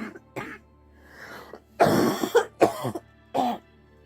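A woman coughing in a short fit: four or five coughs, the loudest about two seconds in. Faint background music runs underneath.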